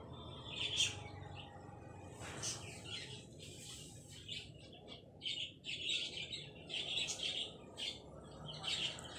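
Small birds chirping in short, quick high calls, more densely from about five seconds in, over a steady low hum.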